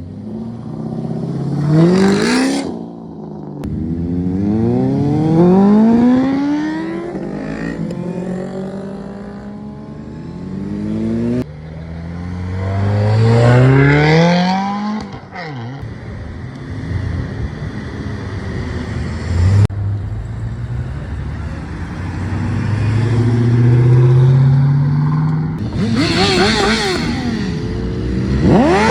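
Car engines accelerating hard one after another, each revving up in rising sweeps that drop back as it shifts gear, with steadier engine running between the pulls.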